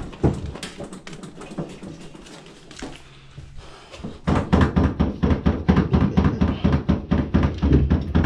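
Irregular taps and knocks of parts and tools being handled on a washing machine's cabinet during disassembly. About four seconds in, a much louder, dense run of rapid clattering knocks begins over a low hum.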